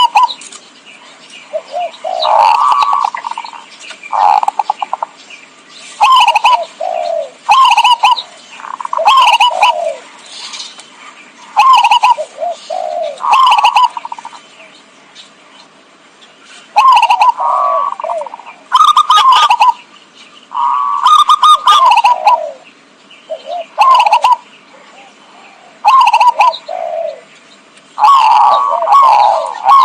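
Zebra dove (perkutut) cooing: loud, repeated phrases of rapid stuttering coos, each about a second long, with a short pause partway through. This is a lure call for attracting wild zebra doves.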